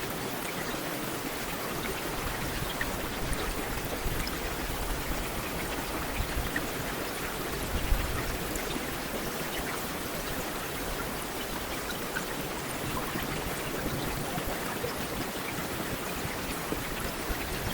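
Heavy rain falling steadily: a dense, even hiss of rain with scattered individual drop ticks. A brief low thump about halfway through.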